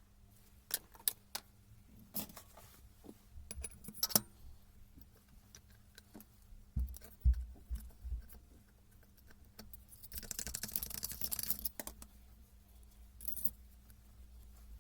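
Metal parts and hand tools clinking and knocking on a workbench during hands-on work on a Hilti TE76 rotary hammer. There are scattered sharp clicks, a few low thumps about seven seconds in, and a noisy rustling stretch of about two seconds around ten seconds in.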